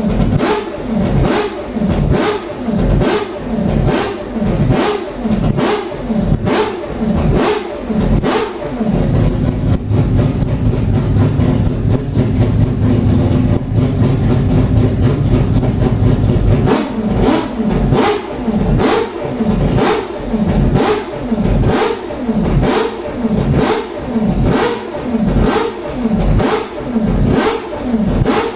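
Mazda 787B's four-rotor R26B rotary racing engine running with the throttle blipped over and over, revs rising and falling about one and a half times a second. About nine seconds in, it is held at steady higher revs for some seven seconds, then the blipping resumes.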